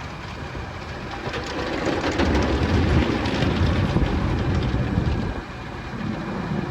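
Car wash water spray and wash equipment beating on the car body, a rain-like hiss with a deep rumble. It grows louder about two seconds in and drops off suddenly near the end.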